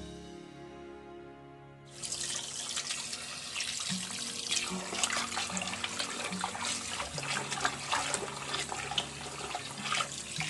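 Water splashing and sloshing in a stainless steel bowl as raw chicken wings are rinsed and rubbed by hand, starting suddenly about two seconds in, over background music.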